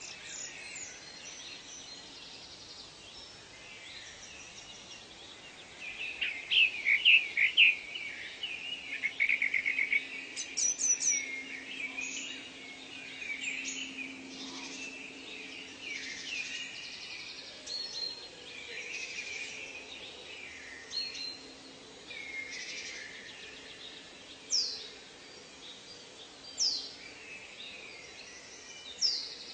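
Several birds calling and singing: many short chirps and trills, busiest about six to eleven seconds in, with a few loud, sharp whistled notes near the end, over a faint steady background hiss.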